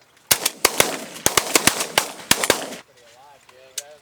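A rapid volley of about a dozen shotgun shots from several hunters firing at incoming pigeons, packed into about two and a half seconds.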